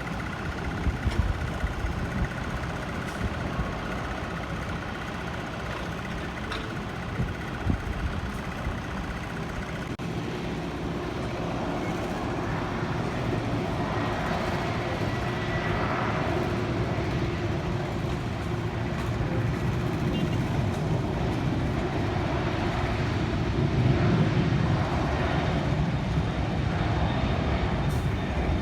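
Jet aircraft engine noise at an airport, a steady rumble that slowly grows louder and is loudest near the end.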